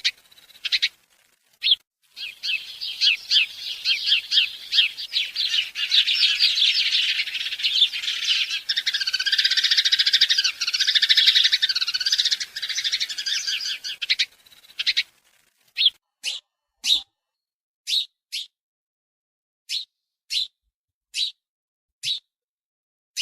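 Birds chirping and twittering in a dense run of quick high chirps that breaks off about fifteen seconds in. After that come single short chirps, one every half second to a second.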